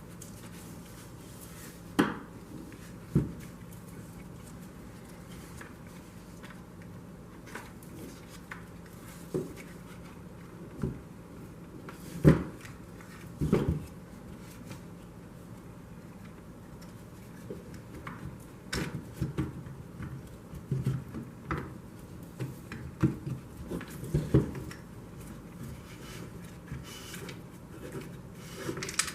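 Intermittent clicks, knocks and clatters of small hard parts and tools being handled and set down on a work surface, sparse at first and more frequent in the second half, over a faint steady hum.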